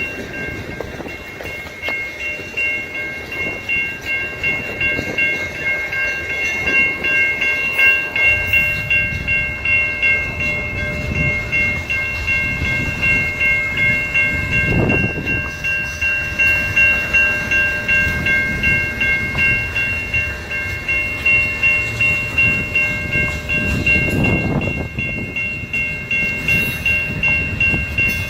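Freight train cars rolling past with a rhythmic clatter of wheels over the rail joints and a low rumble, under a steady high-pitched ringing tone.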